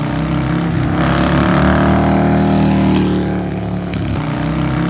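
Motorcycle engine running steadily, its pitch climbing about a second in and easing back down after about three seconds.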